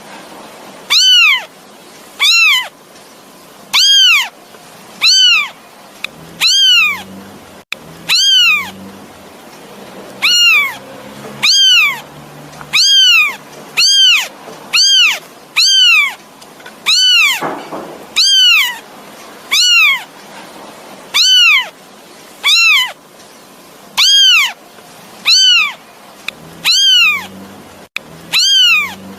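Kitten meowing over and over, short high calls that rise and fall in pitch, about one a second: a kitten calling for its mother.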